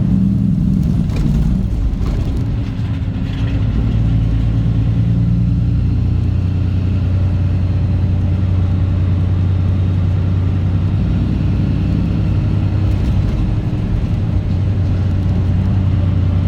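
Straight-piped Caterpillar C15 ACERT inline-six diesel in a Kenworth W900 running steadily, a deep drone whose pitch holds level through most of the stretch.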